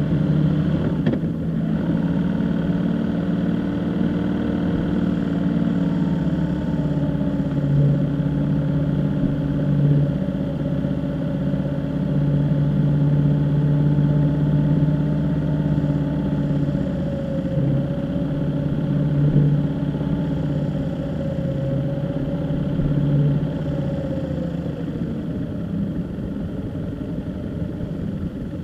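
A vehicle engine running steadily while driving, its pitch wavering a little up and down, with road noise underneath.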